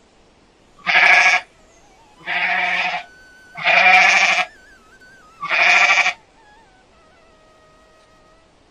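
Goat bleating four times, each call about half a second to a second long, roughly a second and a half apart.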